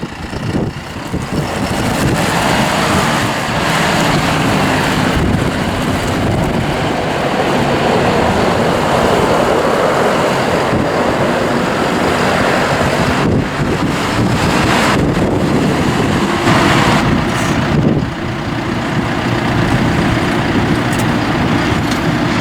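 John Deere 5100E tractor's four-cylinder turbo diesel engine running steadily, dropping a little in level about eighteen seconds in.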